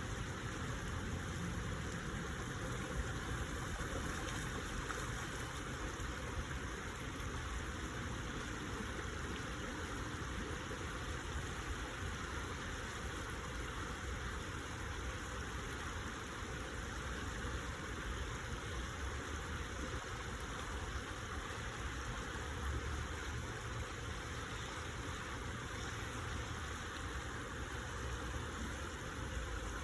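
Steady rushing of water flowing in a stream, with a low rumble underneath.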